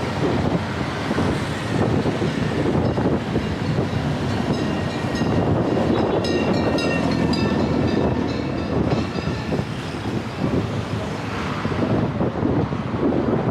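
Wind rushing over the microphone and rumbling road and traffic noise while riding a folding electric bike. A high-pitched squeal or ringing tone cuts in briefly through the middle.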